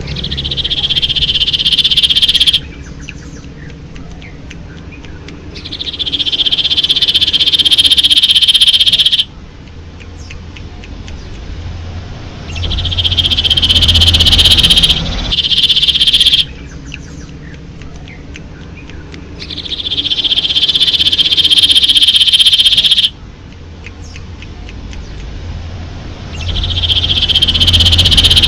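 Common iora (cipoh) singing: long, buzzy, rapid trills of about two to four seconds each, repeated five times with short pauses between, over a low steady background hum.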